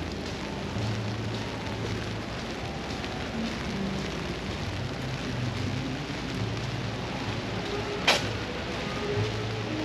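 Steady rain falling and pattering on wet surfaces, with a low rumble underneath and one sharp tap about eight seconds in.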